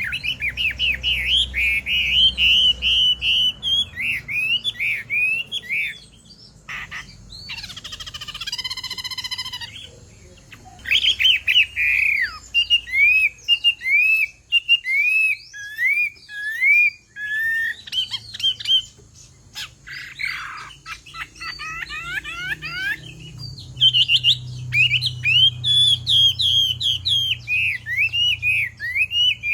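A Chinese hwamei sings loud, rapid, varied whistled phrases in bouts with short pauses. About a third of the way in, a harsher call with several stacked pitches cuts in.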